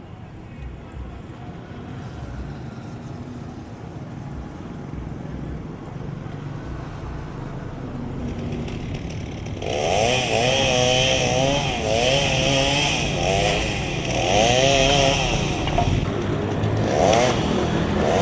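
A low engine rumble, then about ten seconds in a two-stroke chainsaw comes in loud, revving with its pitch swinging up and down as it works through firewood.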